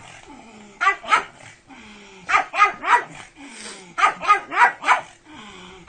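Pug barking excitedly in quick runs of short barks, two, then three, then four in a row, with softer whines between the runs.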